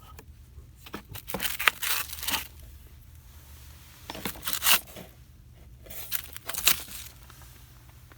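Crinkly packaging being handled and pulled at in three bursts, with quieter pauses between them.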